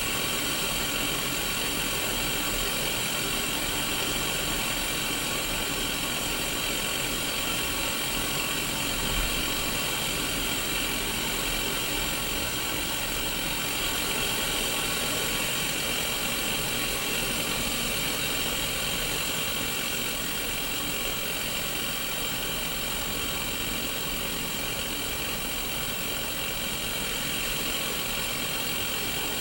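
Steady static hiss from the speaker of a Sony Mega Watchman mini black-and-white CRT TV tuned to an empty channel. The hiss is even and unbroken, and its brightest part is in the upper-middle range.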